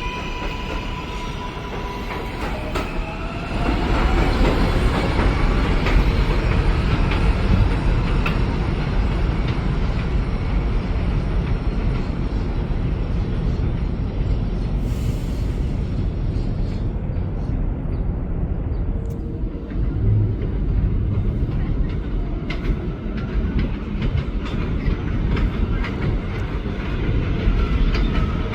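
New York City Subway 7 train on the elevated IRT Flushing Line: a rising motor whine in the first few seconds, then a loud, steady rumble of the cars with wheel clicks over the rail joints.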